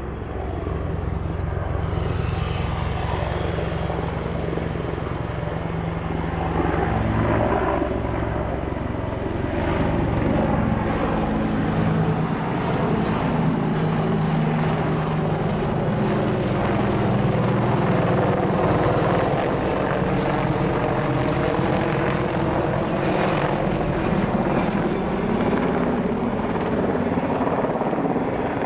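Military combat helicopter flying overhead: a continuous rotor beat and engine drone, its pitch slowly sliding as the aircraft moves across the sky.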